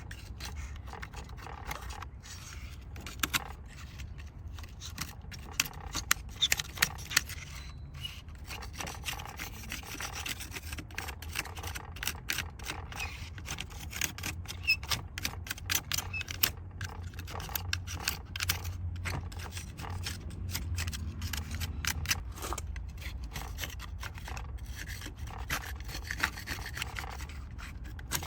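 Irregular scratchy scraping and rubbing on a die-cast model truck as it is cleaned, with occasional sharper clicks.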